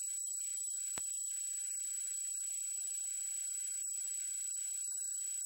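A steady high-pitched electronic tone, with a single sharp click about a second in.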